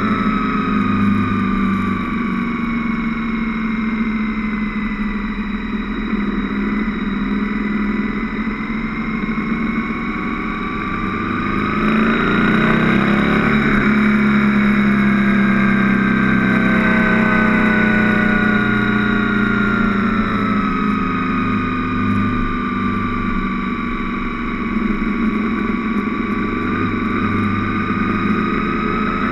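Motorcycle engine running at road speed, its pitch sinking slowly, then rising as it accelerates about twelve seconds in, and easing back off.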